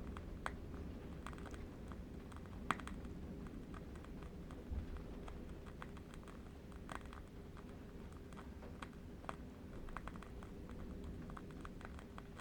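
Burning candle wick crackling: sparse, irregular soft clicks and pops, one sharper pop a few seconds in, over a low steady rumble of distant wind.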